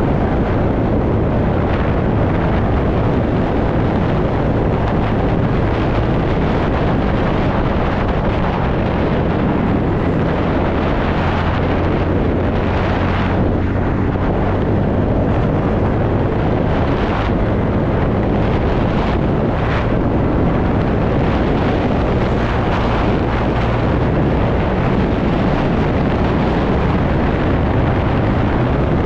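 A TVS Ntorq scooter's single-cylinder engine running steadily while riding, with heavy wind noise on the microphone over it.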